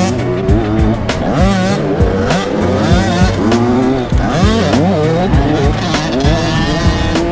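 Motocross dirt bike engines revving up and dropping back again and again as bikes ride the track, with background music underneath.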